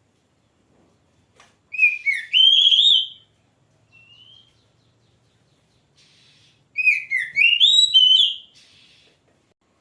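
Oriental magpie-robin (kacer) singing in full voice: two loud phrases of rapid whistled notes that swoop up and down, each about a second and a half long and five seconds apart, with a soft short whistle between them.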